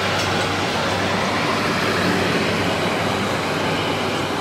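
Freight train of covered sliding-wall wagons rolling past at speed: a steady, even noise of wheels running on rails.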